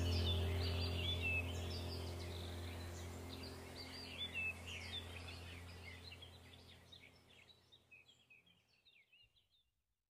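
Many birds chirping over a low steady hum, all fading out gradually until the sound stops shortly before the end.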